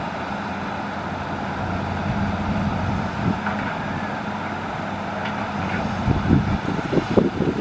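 Hitachi excavator's diesel engine running steadily under work, with a rough, irregular thudding starting about six seconds in.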